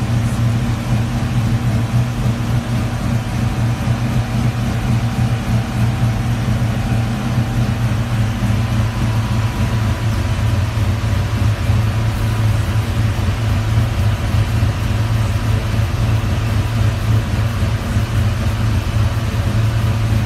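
Turbocharged SN95 Ford Mustang's engine idling steadily, a low even rumble that holds unchanged throughout.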